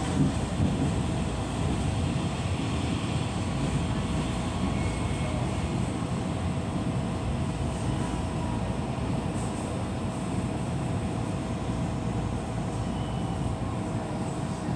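A train running steadily along the track: a continuous low rumble with a faint steady hum over it.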